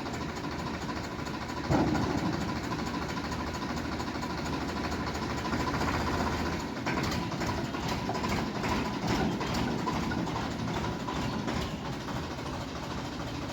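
Sonalika DI 750 tractor's diesel engine running steadily, with a sudden louder burst a little under two seconds in and a rougher clattering from about halfway on.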